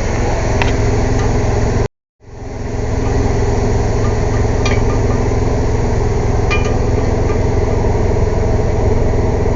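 Air compressor running with a steady, loud drone, with a few faint clinks over it. About two seconds in, the sound cuts out completely for a moment, then comes back up over about a second.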